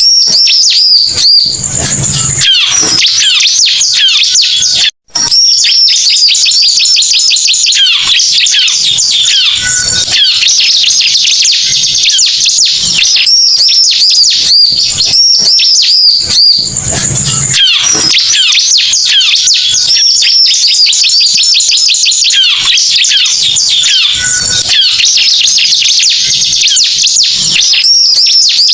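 Bar-winged prinia (ciblek) lure recording: loud, fast, rapidly repeated high chirping trills and calls, with a phrase sequence that repeats about every fifteen seconds. The sound cuts out briefly about five seconds in.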